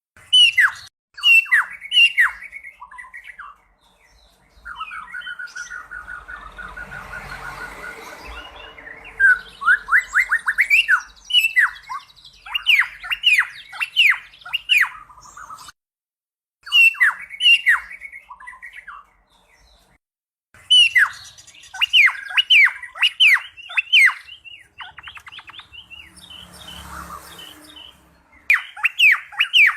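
Cucak pantai singing: loud bursts of quick, sharply down-slurred whistled notes in rapid series, with a short break in the song twice, at about a sixteen-second mark and again near twenty seconds. About five seconds in, a steadier, rougher warbling stretch runs for a few seconds before the whistled notes return.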